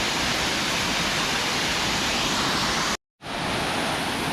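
Waterfall: steady, even rush of falling water, broken by a split-second gap of silence about three seconds in where the recording cuts.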